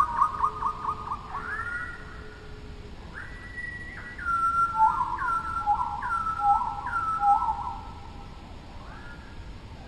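A bird singing clear whistled notes. It opens with a fast trill of short falling notes, then gives rising slurs and a held high note. A two-note whistled phrase follows, repeated about four times, and a last rising whistle comes near the end.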